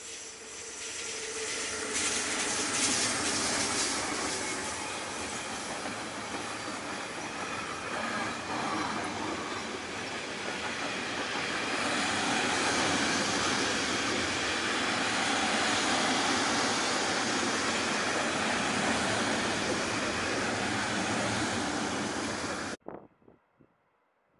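Electric freight train passing close by, headed by two red SBB electric locomotives that go past first. A long run of covered wagons follows with a steady rolling noise of wheels on rail. The sound cuts off suddenly near the end.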